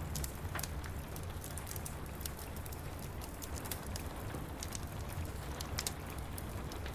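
Steady rain pattering on window glass, with the sharp irregular pops and crackles of a wood fire over a low rumble.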